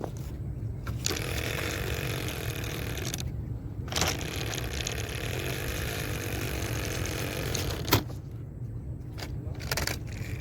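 Remote-control toy car driving, its small motor whirring and wheels scraping over rough ground in two spells that start and stop abruptly, with sharp clicks about four and eight seconds in. A steady low rumble runs underneath.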